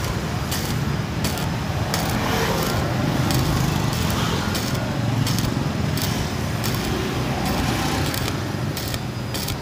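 Stick (MMA) welding arc from a Pro Tech 250 welder, crackling and sputtering steadily as an electrode burns a bead on steel plate, run hot.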